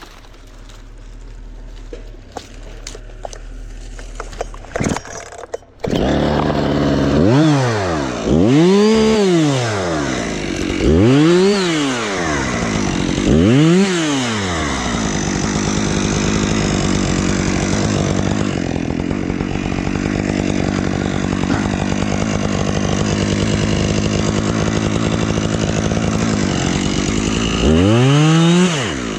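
Husqvarna chainsaw starting up about six seconds in after a few quiet clicks. It is revved up and down three times, then runs at a steady speed, and revs up again near the end.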